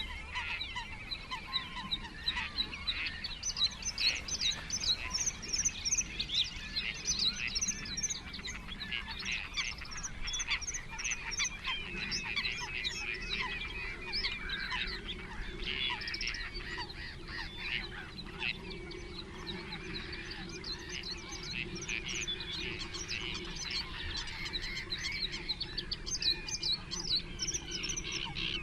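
A dense chorus of many birds calling and singing at once, with short overlapping chirps and calls throughout.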